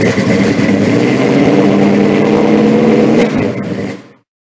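Loud engine running steadily, fading away to silence near the end.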